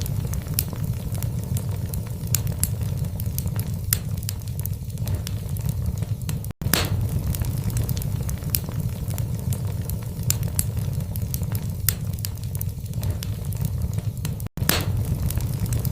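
Wood fire burning in a fireplace: a steady low rumble of the flames with irregular sharp crackles and pops from the logs. The sound drops out for an instant twice, about six and a half seconds in and near the end.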